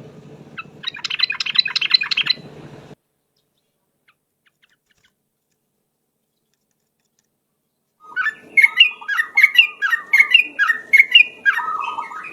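Yellow-vented bulbul (trucuk) singing: a short run of chirping notes for about three seconds, then a pause of about five seconds, then a longer run of rapid, bubbling notes.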